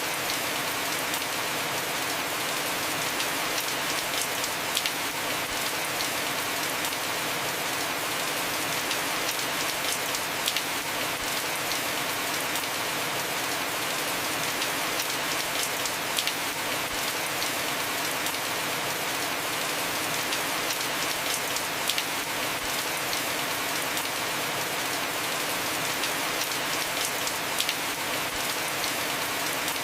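Heavy rain falling steadily on a roof, a dense even hiss with many individual drops pattering on top.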